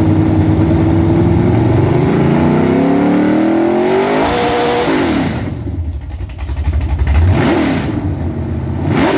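Freshly built Chevy 355 small-block V8 with domed pistons running at a fast idle, then revved smoothly up for about two seconds and held at the top against its rev limiter for about half a second before dropping back. Two quick throttle blips follow in the second half.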